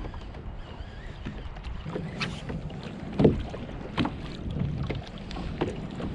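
Water slapping against a kayak hull, with wind buffeting the microphone. A few sharper knocks and splashes come through, the loudest about three seconds in.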